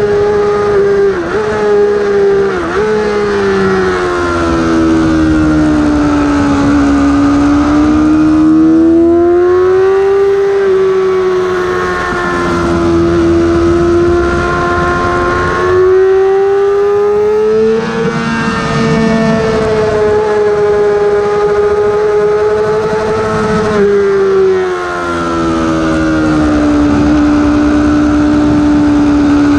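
Yamaha YZF-R6's inline-four engine at high revs, heard from on the bike over wind rush. In the first few seconds there are quick dips in pitch as it downshifts under hard braking. After that the note falls and rises as the rider brakes for corners and accelerates out of them, rising near the middle and falling again a few seconds before the end.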